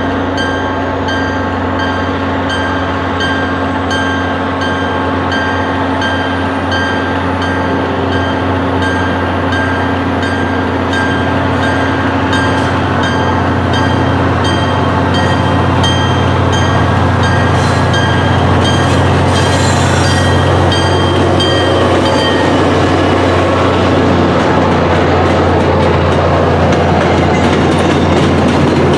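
MBTA commuter train's diesel locomotive approaching and passing, its engine running steadily, with an evenly repeating ringing over it that fades out about three quarters of the way through. Near the end the bilevel passenger coaches begin rolling by.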